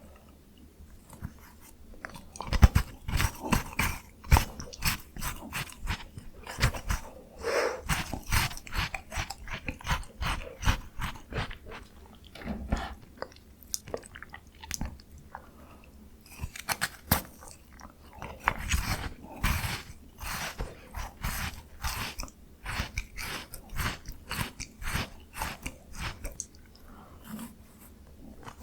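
Close-miked biting and chewing of a frozen ice cream bar: crunchy, crackling bites and wet chewing clicks in quick succession, with a couple of short pauses.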